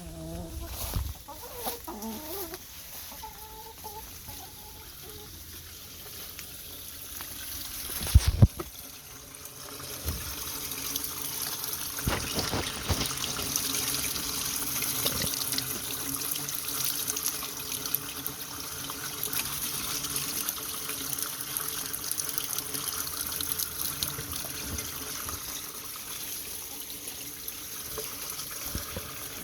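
Hens clucking in the first few seconds, a single sharp knock about eight seconds in, then a steady trickle and splash of running water.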